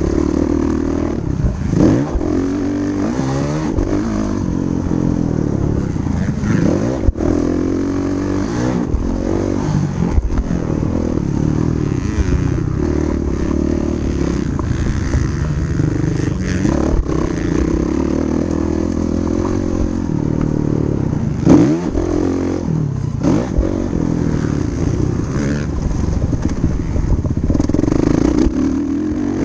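Motocross dirt bike engine revving hard and dropping back over and over as it rides the track, with a few sharp knocks along the way.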